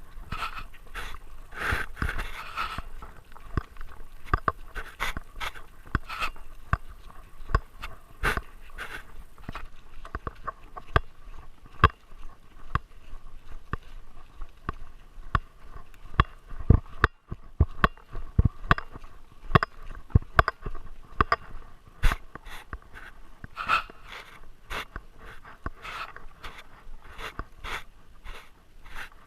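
A Great Dane panting right next to the microphone, with frequent irregular clicks and knocks throughout.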